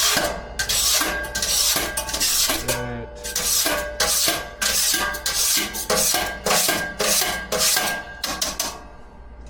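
Metal scraping inside an emptied deep fryer vat, about two rasping strokes a second with short metallic ringing, as residue is scraped off the vat and its heating tubes. A steady low hum runs underneath.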